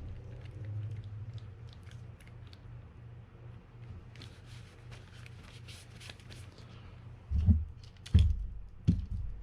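Small clicks and light scrapes of a Fin-Nor Offshore 4500 spinning reel's parts being handled and fitted back together, with a stretch of scraping in the middle and three dull bumps near the end.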